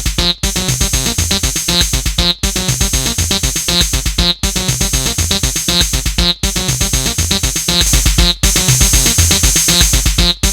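Acid electronic music jammed on acidmachine: a fast sequenced synth pattern with a steady rhythm of short notes. The music cuts out for an instant about every two seconds.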